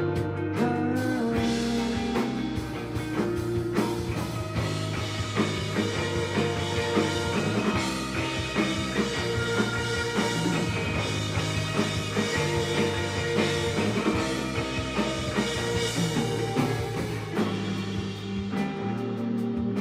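A live rock band playing with full instrumentation: drum kit, electric guitars and bass.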